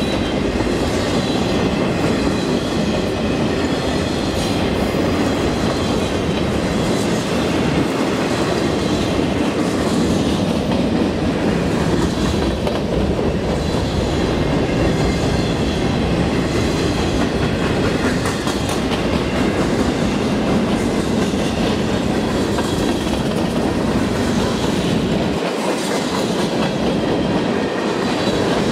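Freight train of boxcars rolling past close by: a steady rumble with the clickety-clack of the wheels over the rail joints.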